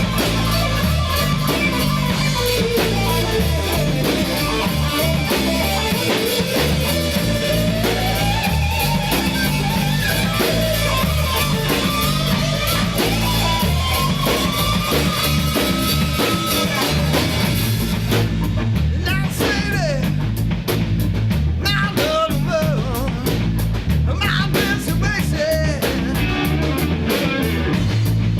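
A rock song from a three-piece jam band: electric guitar, bass and drum kit, with a gliding melodic lead line. About two-thirds of the way through the sound turns duller as the highest frequencies drop away.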